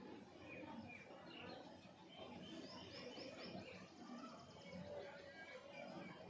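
Faint bird chirps over low background noise, with a quick run of short falling chirps about halfway through.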